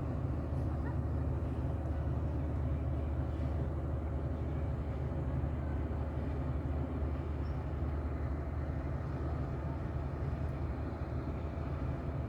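A boat's engine running steadily: a low, even drone with no change in pace.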